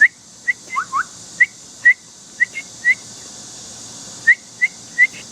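A person whistling short, high, bird-like chirps, about a dozen in small groups, with two lower rising whistles about a second in and a pause of a second or so around the middle.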